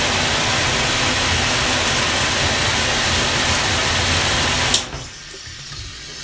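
Handheld shower head spraying water in a loud, steady hiss. Near the end there is a click as the spray setting is switched, and the flow drops to a much quieter, weaker spray that seems to need more water pressure.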